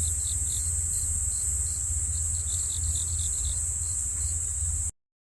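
Insects chirping: a steady high-pitched chorus with short, repeated chirps beneath it and a low rumble underneath. It cuts off suddenly near the end.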